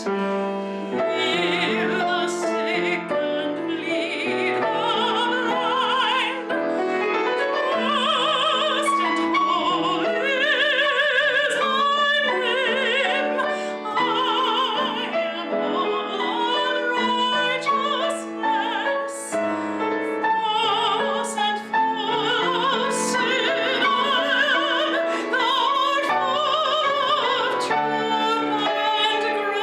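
Classical solo singing in an operatic style with wide vibrato, accompanied by piano: sacred music performed during a church service.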